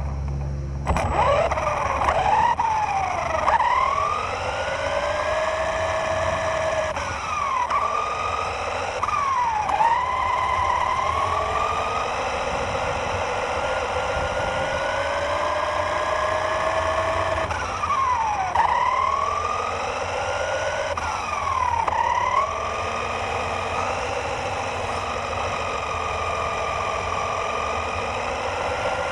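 Radio-controlled car's motor whining, its pitch repeatedly dropping and climbing back up as it slows and speeds up, starting about a second in, over a steady low rumble.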